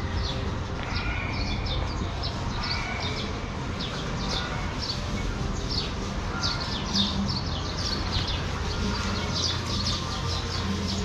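Small birds chirping: many short, quick, falling chirps repeating throughout, over a steady low rumble.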